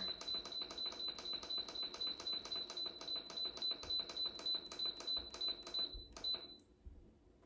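Instant Pot control panel beeping rapidly, about five short beeps a second, as the pressure-cook time is stepped up to 1 hour. The beeping stops about six and a half seconds in.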